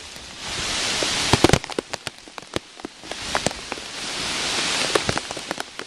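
Heavy hurricane rain coming down in gusts, the hiss swelling twice, with sharp drops tapping on a plastic bag covering the camera.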